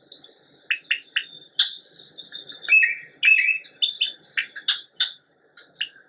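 Birds singing and chirping: many quick, irregular high chirps, with a longer buzzy trill about two seconds in.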